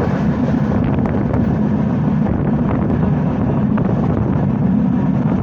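Passenger train running steadily, heard from on board: a continuous low rumble with wind noise on the microphone.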